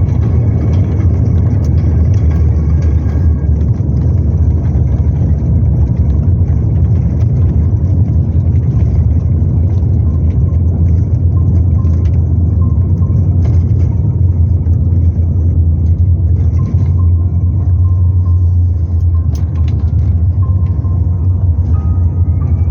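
Steady low rumble of an Airbus A350-900 heard from inside the cabin, engine and airflow noise with a few faint steady tones above it, on the approach or on the ground near the end of the flight.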